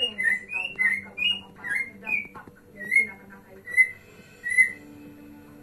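Male white-rumped shama singing: a quick run of clear whistled notes, then three slower, separate whistles, ending about five seconds in.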